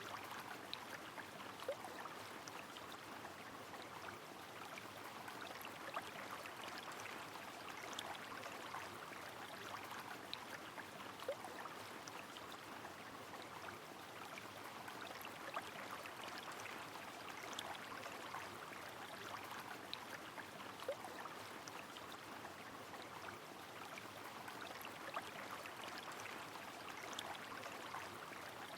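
Rain and a flowing river: a steady rush of water, with scattered sharp drips and plinks of raindrops through it.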